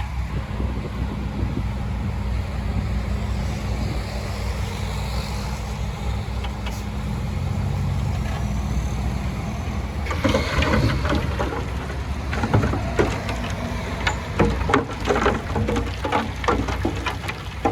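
Heavy earthmoving machine's diesel engine running steadily. From about ten seconds in come repeated clattering knocks.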